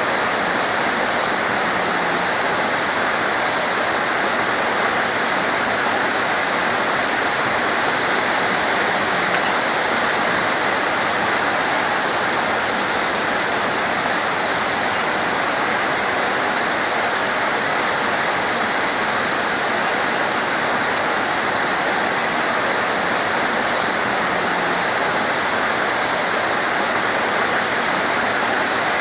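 Heavy tropical rain pouring steadily, a dense, even hiss of a torrential downpour.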